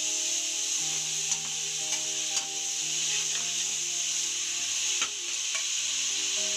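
Chopped onions, green chillies and tomatoes sizzling in hot oil in a metal kadai while being stirred with a perforated metal ladle, which clicks against the pan a few times.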